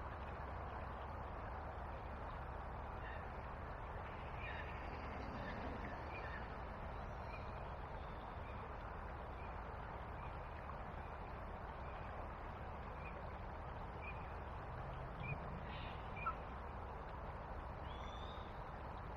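A small bird calling a short, high note over and over, about once a second, over a steady rushing background.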